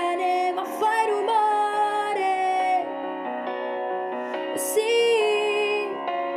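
A tender ballad: a woman's voice holding long notes over soft instrumental accompaniment.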